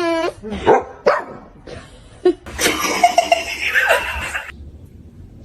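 A pet animal vocalising: short calls, then a noisy call lasting about two seconds that stops suddenly.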